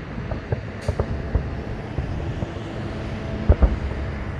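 Steady rumble of road traffic with distant fireworks booms popping over it; two louder bangs about three and a half seconds in.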